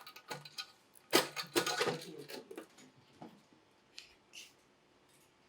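Metal hand tools and engine parts clinking and clattering as they are handled during engine assembly. The clatter is loudest in a cluster over the first half, followed by a few single clicks.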